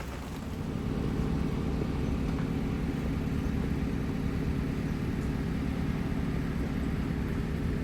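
Steady low rumble of a nearby engine, swelling up over the first second and then holding, over a light hiss of rain.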